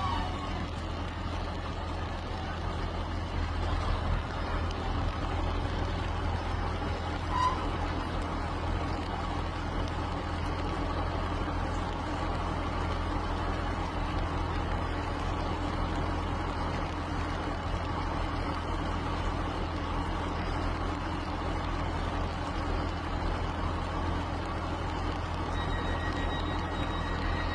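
A train's engine running steadily with a low hum, without pauses. A faint high thin tone comes in near the end.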